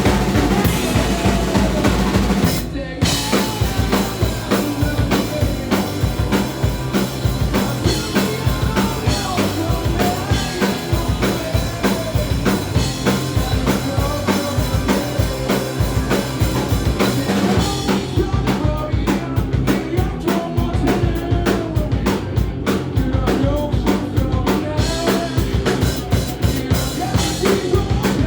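Punk rock band playing live, the drum kit driving a fast, steady beat under the rest of the band, with a short break about three seconds in.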